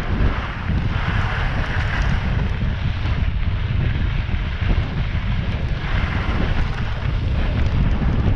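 Wind buffeting the microphone of a camera riding on a mountain bike over a rocky trail, a steady rumble, with a hiss that swells twice.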